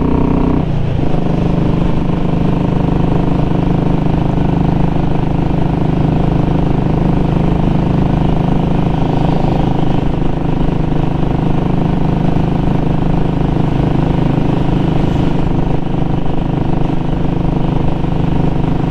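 Royal Enfield Classic 500 single-cylinder engine running at a steady cruise while being ridden, heard through a muffler with its baffle removed. The engine note changes briefly about a second in, then holds steady.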